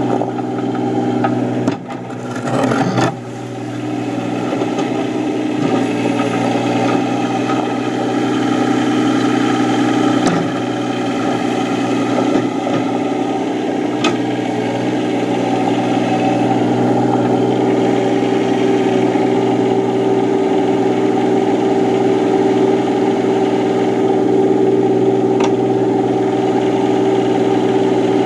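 Yanmar SC2450 compact tractor's diesel engine running steadily under work, with a brief clatter about two to three seconds in.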